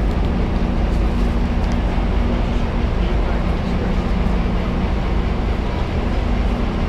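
Steady low hum and rumble of an idling Amtrak bilevel passenger train standing at the platform.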